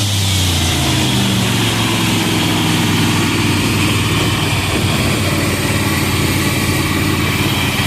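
Old pickup truck's engine running steadily with an even low hum.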